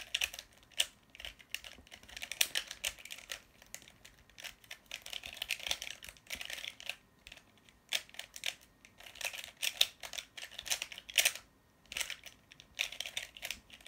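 A plastic 3x3 twisty puzzle cube being turned quickly during a solve, giving rapid runs of clicking and clacking layer turns, with a short pause near the end.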